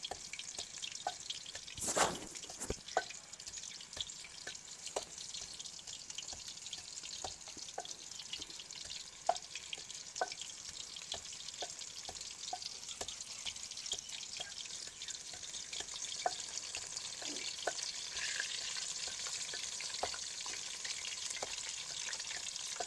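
Chicken pakoras deep-frying in hot oil in a karahi, a steady sizzle that grows louder in the second half. Over it come irregular knocks from a wooden pestle pounding green chillies and herbs in a mortar, with a louder knock about two seconds in.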